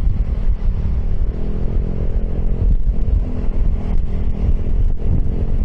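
Piaggio X10 scooter engine with an aftermarket Akrapovic exhaust running while riding, a steady engine note over heavy low rumble.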